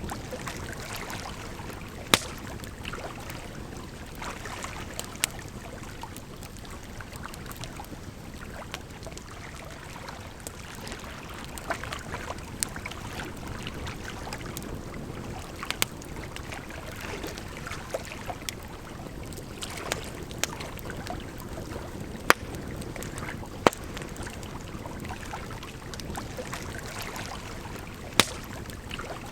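Campfire crackling, with sharp pops every few seconds, over a steady rush of flowing water.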